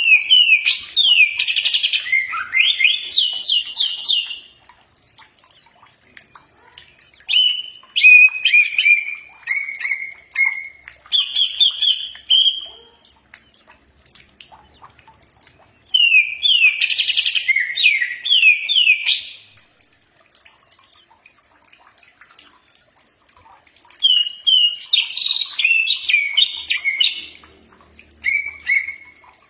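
Cucak ijo (green leafbird) singing in bouts of a few seconds: rapid chirps and quick downward-sweeping whistles, with short pauses between the bouts.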